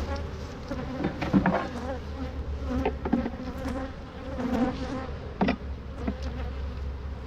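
Honeybees buzzing steadily around an open hive box, with a few short sharp knocks, one about a second in and others around three, five and a half and six seconds in.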